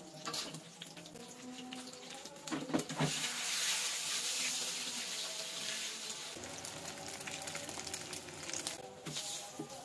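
An omelette frying in hot oil in a small pan: a few clicks of a metal spatula against the pan, then about three seconds in the oil sizzles up strongly as the egg is turned, easing to a softer sizzle after a few seconds.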